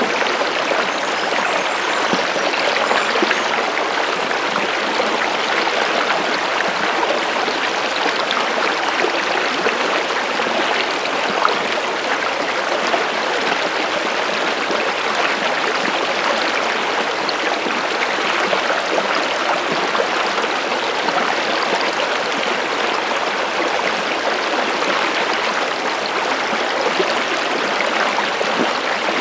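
Running water of a stream, a steady, unbroken rush with fine splashing.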